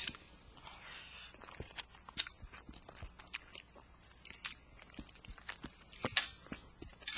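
Close-up chewing and biting of food, with irregular wet mouth clicks and short crunches.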